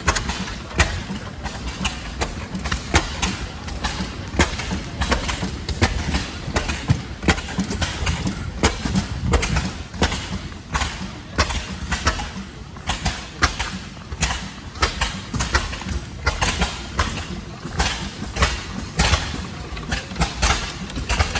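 Antique stationary gas engines running, with sharp, irregular firing pops over a low rumble.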